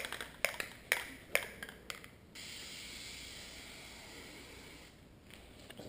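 Aerosol can of Plasti Dip: a few sharp clicks about half a second apart, then a steady spraying hiss from about two seconds in, with a short break near the end.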